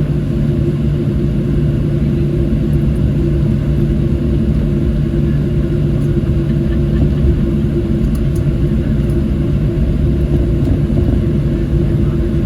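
Steady cabin noise inside a Boeing 737-700 on the ground after landing: an even rumble with a constant low hum, unchanging throughout.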